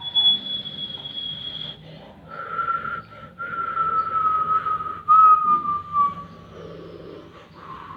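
Boeing 777-300 jet engines whining just after touchdown. A high steady tone sounds for the first couple of seconds, then a lower tone slowly falls in pitch as the engines spool down.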